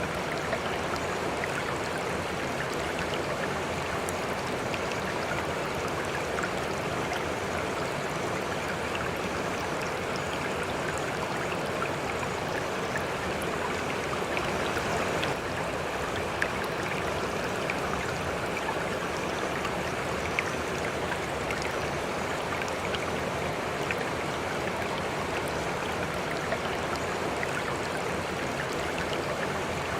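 A stream of water flowing and splashing steadily, with small scattered splashes on top.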